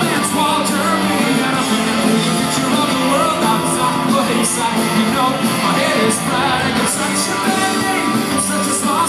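Rock band playing live, guitars and full band at a steady loud level, with some singing over it.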